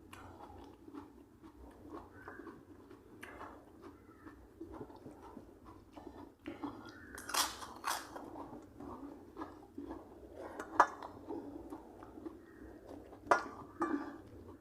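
A person eating and chewing food close to the microphone, with a few sharp crunches, loudest around the middle and near the end.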